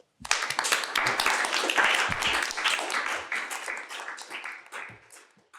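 Audience applauding at the close of a lecture: the clapping starts abruptly just after the talk's last words and thins out and dies away near the end.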